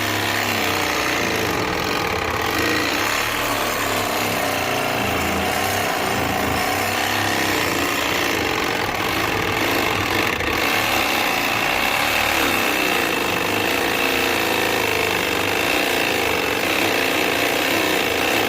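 Cordless reciprocating saw running continuously, its blade cutting through rusted steel under a truck.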